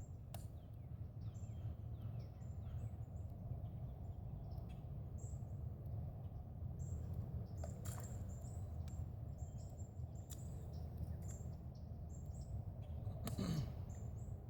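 Small birds chirping repeatedly in short high calls over a steady low rumble, with a few sharp clicks and a brief louder sound gliding down in pitch near the end.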